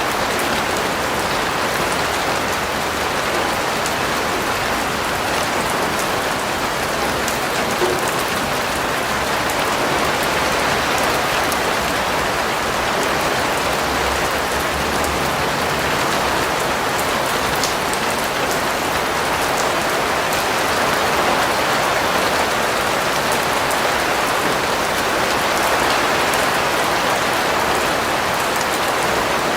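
Steady rain falling on a surface, a continuous even hiss with fine scattered drop ticks.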